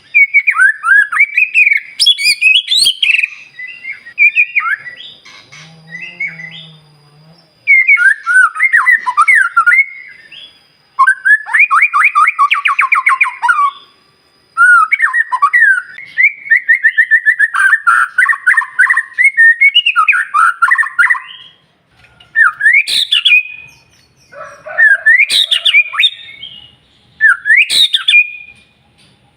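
White-rumped shama (murai batu) singing loud, varied phrases of whistles and quick notes in a string of bursts with short pauses, including a fast rattling run about halfway through.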